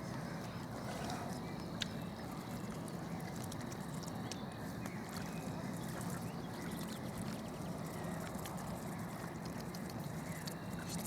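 Waterbirds at a lakeshore, a few faint short calls over a steady background of outdoor noise.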